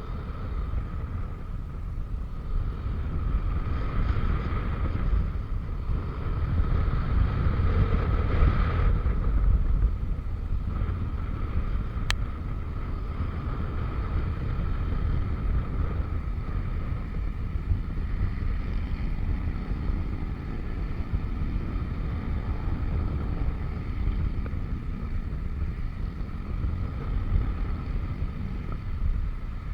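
Yamaha NMAX scooter underway: wind buffeting the microphone over a steady engine and drive whine. The sound swells for a few seconds early in the ride. One sharp click is heard about twelve seconds in.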